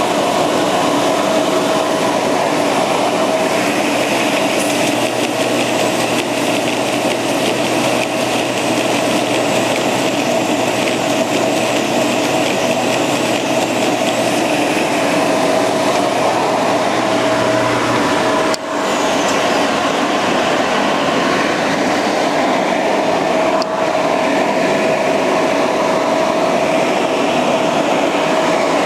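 Stationary edge sander running, its abrasive belt sanding the edge of a solid maple round top: a loud, steady grinding noise with a constant hum. The sound dips briefly about two-thirds of the way through.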